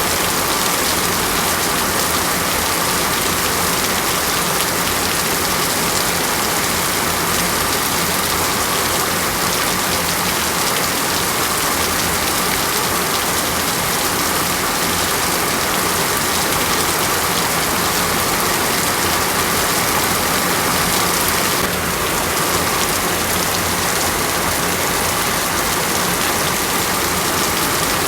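Steady, dense rain falling, an even hiss with no breaks; its character shifts slightly about three-quarters of the way through.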